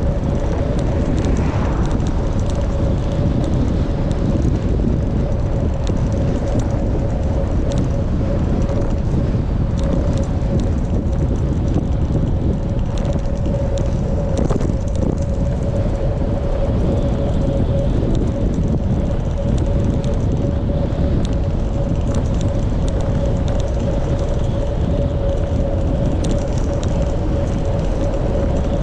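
Wind buffeting the microphone of a bicycle on the move, with a constant mid-pitched hum running steadily underneath.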